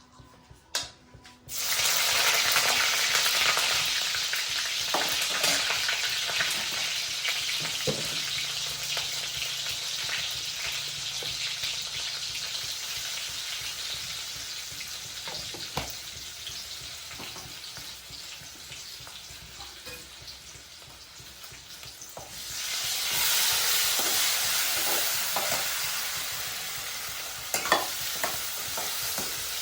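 Food frying in hot oil in a pan: a loud sizzle starts suddenly about a second and a half in and slowly dies down, then swells again a few seconds before the end. A few sharp knocks of a utensil against the pan sound over it.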